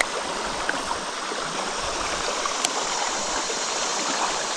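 Small creek water running and rippling steadily over its bed, with one brief click about two and a half seconds in.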